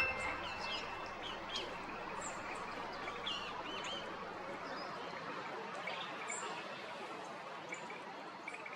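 Small woodland birds giving many short, high chirps and calls, scattered and irregular, over a steady background hiss.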